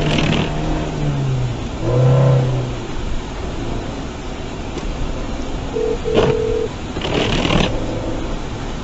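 Car and road traffic noise, as picked up by a dashcam: a steady engine-and-tyre rumble with a falling engine note early on, short pitched honk-like tones about two and six seconds in, and a brief rush of noise around seven seconds.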